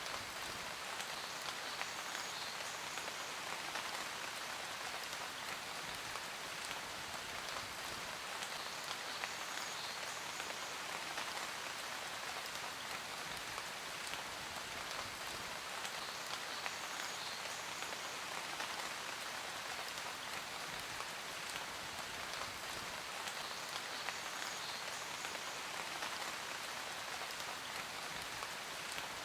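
Steady rainfall, a dense even hiss of drops pattering on a surface.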